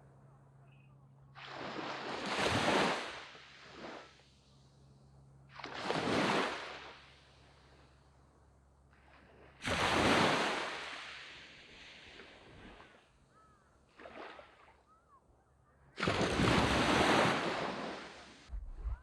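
Small sea waves breaking and washing up a sandy beach, four times: each one rises to a rushing swell and then fades back.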